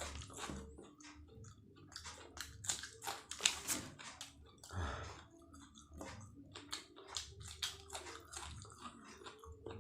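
Close-miked chewing of martabak telur, a stuffed egg pastry, eaten with chillies and sambal: a steady run of wet clicks and mouth smacks.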